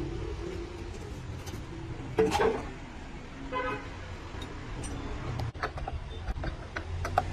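A short honk from a vehicle horn about three and a half seconds in, just after a louder knock with a ringing tail about two seconds in, with scattered sharp clicks and taps later on.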